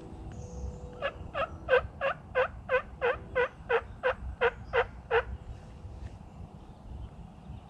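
A series of about a dozen turkey yelps, roughly three a second, building louder toward the middle and then fading.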